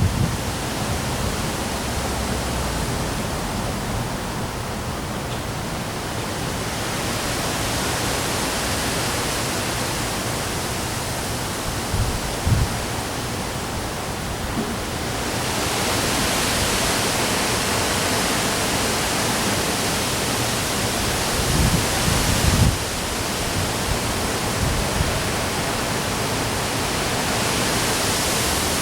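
Rainstorm with high winds: a steady hiss of rain and wind that swells about halfway through, with a few brief low gusts buffeting the microphone.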